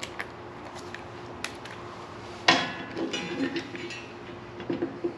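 Metal hand tools clinking against a bolt: light ticks and clicks, then a sharp metallic clank about two and a half seconds in, followed by a second or so of rattling.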